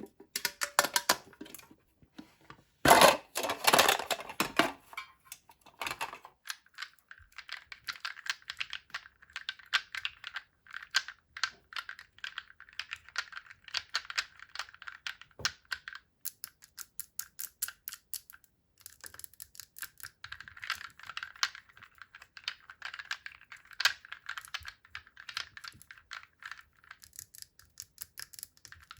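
Candy-toy packaging being unwrapped and handled up close: a louder tearing crinkle about three seconds in, then a long run of rapid small plastic clicks and crackles.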